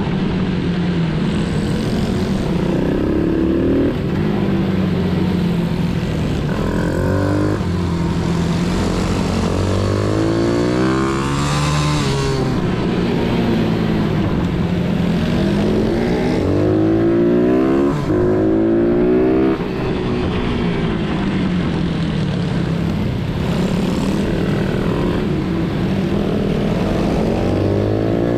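Pit bike engine being ridden hard: the revs climb and fall again and again, with several rising sweeps in pitch as the bike accelerates, then drops back.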